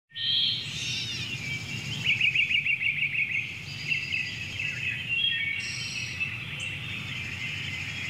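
Several birds singing at once, with chirps and fast trills, over a low steady hum.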